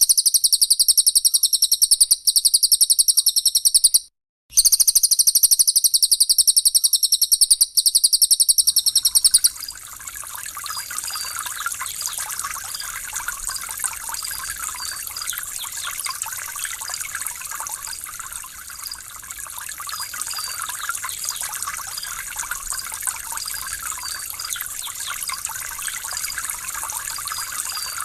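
A bird's very rapid, high-pitched trill, loud and unbroken except for a short gap about four seconds in, stops about nine seconds in. Steady trickling water follows, with faint small chirps over it.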